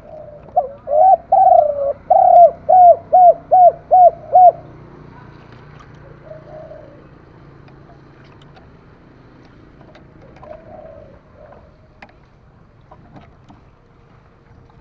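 Spotted dove cooing one song phrase of about a dozen notes over four seconds, ending in a quick run of short evenly spaced coos. Two faint, softer coos follow later, then a few small clicks.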